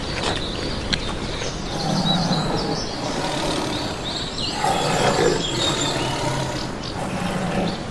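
Big cat roaring, loudest about five seconds in, with small bird chirps in the background.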